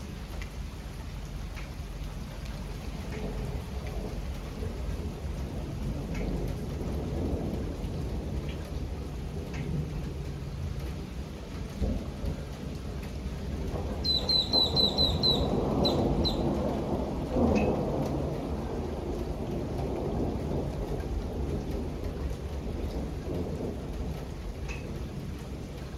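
Steady rain with rolling thunder that swells to a long rumble a little past halfway, then fades back. A brief run of high, quick chirps sounds during the swell.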